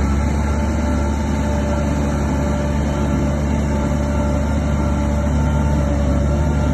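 Bulldozer's heavy diesel engine running steadily under load, a deep even drone with no revving or breaks.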